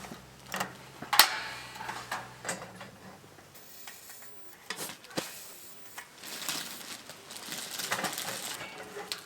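Camp gear being handled: scattered clicks and clatter, with one sharp knock about a second in that rings on briefly. A low hum underneath stops about three and a half seconds in.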